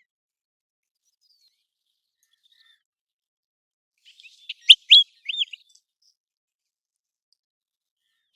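American golden plover calling: a short run of three or four clear, arched whistled notes about halfway in.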